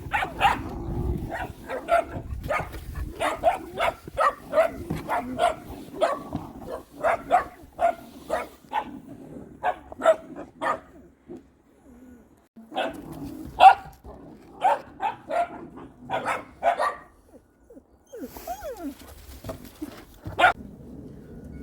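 Dog barking over and over in quick runs of sharp barks, about one or two a second, with a short pause about halfway through and a single bark near the end.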